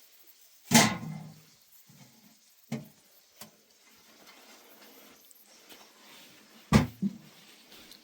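Knocks and thuds of objects being handled: a loud thud about a second in and another near the end, with a few fainter knocks between.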